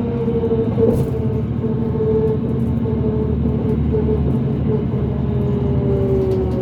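Inside a New Flyer D40LF diesel transit bus with a Cummins ISL engine under way: a steady low drivetrain rumble with a whine on top, which the uploader calls a weird axle noise. The whine dips a little in pitch near the end.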